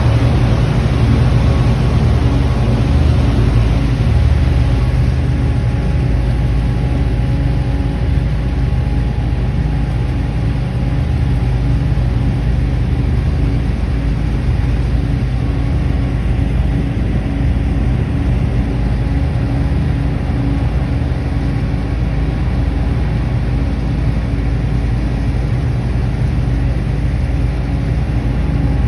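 River cruise boat's engine running steadily, heard from on board: an even low hum with a few held tones above it, no change in speed.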